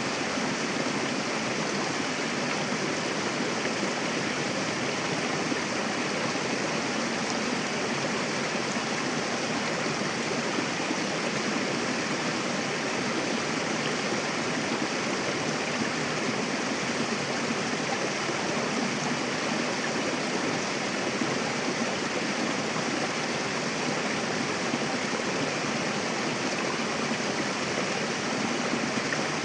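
Mountain river rushing and splashing over rocks, a steady, even flow of water.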